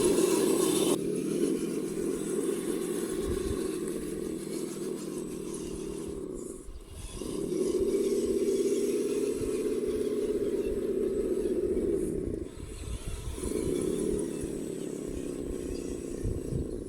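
Radio-controlled construction models' motors and gearing running with a steady whine. The whine stops and restarts twice, in runs of several seconds.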